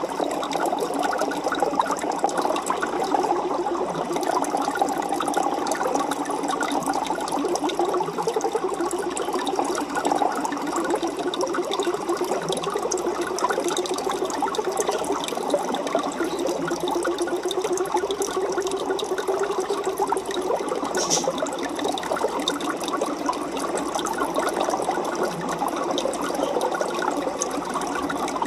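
Aquarium water bubbling and trickling steadily, a dense fine crackle of small bubbles and moving water.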